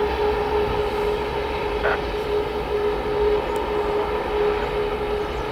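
Jet airliner engines running steadily: a constant whine over an even rushing noise and low rumble.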